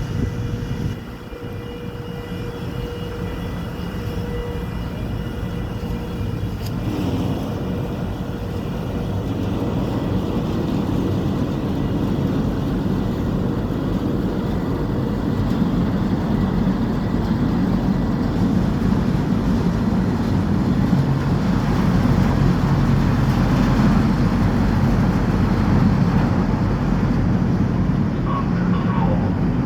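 Ferry's engines, a steady low rumble that grows gradually louder as the ship comes into port.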